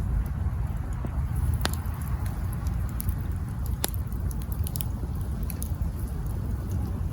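Campfire burning: wood crackling with scattered small ticks and two sharp pops about two seconds apart, over a steady low rumble.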